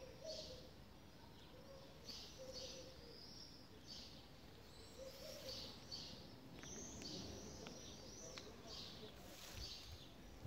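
Small birds chirping faintly: short high calls, one or two a second at irregular spacing, over low outdoor background noise.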